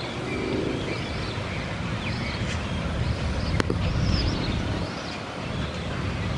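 Birds calling again and again over a steady low rumble, with one sharp click about three and a half seconds in.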